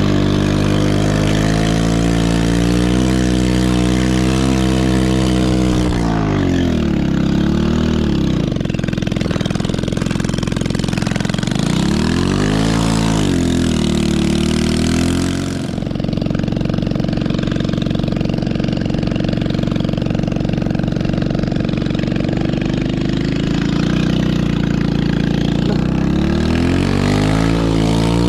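Small 110cc single-cylinder four-stroke ATV engine running, its revs dropping, swelling up and back down again, then holding steady at a lower speed before picking up near the end.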